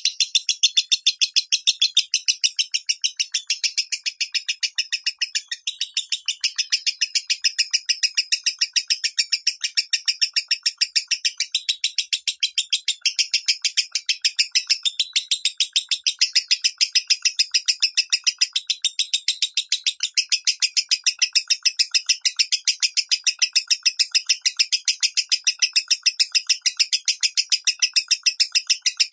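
Lovebird singing the high, rapid 'minor' call: a continuous run of shrill chirps repeated evenly at about five a second.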